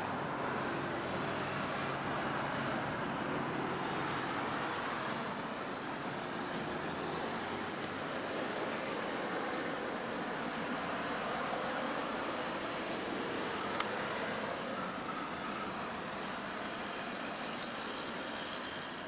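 Passing road traffic: a steady rushing hiss with only gentle swells.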